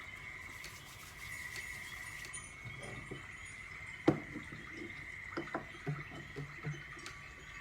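Objects being handled and set down: one sharp knock about four seconds in, then several softer knocks, over a steady high-pitched whine.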